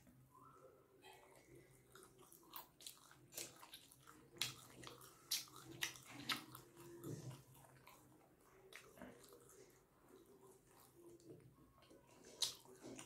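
A person biting into and chewing a mouthful of chicken momo, with irregular sharp mouth clicks that are loudest in the middle and once more near the end.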